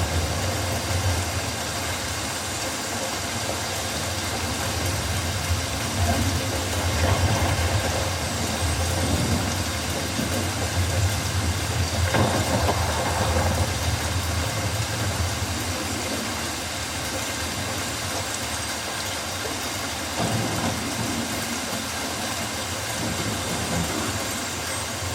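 Steady rain falling on rainforest foliage, an even hiss, with a low rumble that swells and fades several times.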